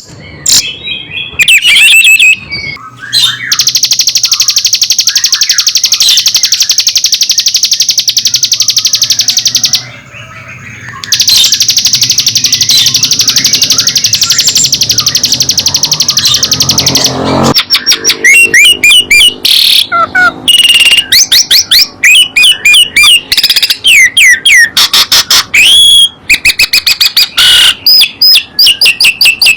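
Songbirds singing loudly: a very fast, high, buzzing trill that runs for several seconds, breaks off briefly about ten seconds in, and resumes, then gives way at about 17 seconds to a quick run of varied whistled notes and chirps.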